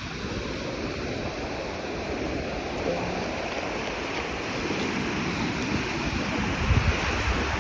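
Stormy Black Sea surf: a steady rush of waves breaking on the beach, with a stronger low rumble near the end.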